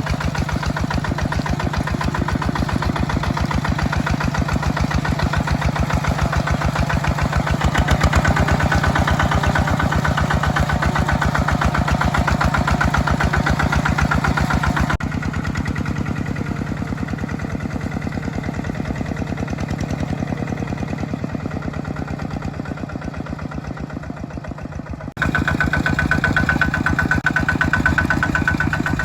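Mini tractor engine running steadily with a fast, even knocking beat while plowing. The sound drops quieter suddenly about halfway through and jumps back louder near the end.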